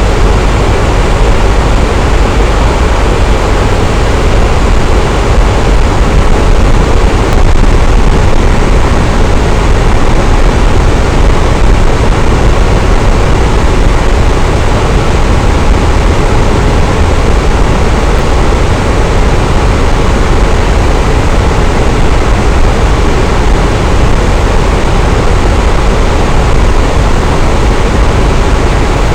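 Electric fan running steadily: an even, loud whoosh of moving air with a low rumble and a faint motor hum.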